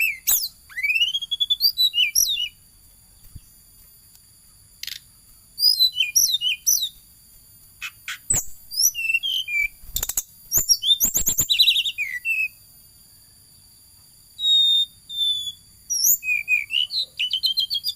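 A tledekan flycatcher singing in bursts of high, thin chirps, short rising and falling whistles and quick trills, with pauses of a second or two between phrases. A few sharp taps or clicks come around the middle.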